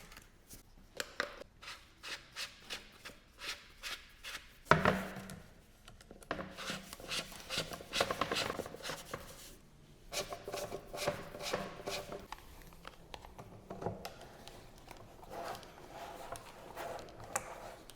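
Hard plastic parts of an electric fan being handled and fitted together: a run of clicks, knocks and rubbing, with one louder knock about five seconds in.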